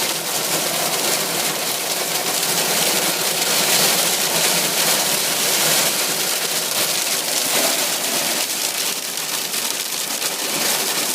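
Hail and heavy rain hammering on a car's roof and body, heard from inside the cabin as a dense, steady, deafening din of countless small impacts.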